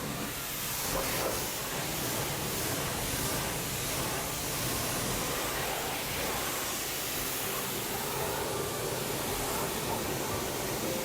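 High-pressure washer wand at a self-service car wash spraying water, a steady hiss.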